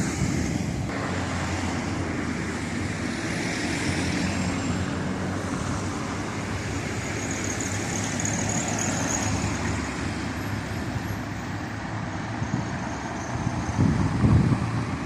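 Steady road traffic noise with a vehicle's low engine hum, which fades out about two-thirds of the way through.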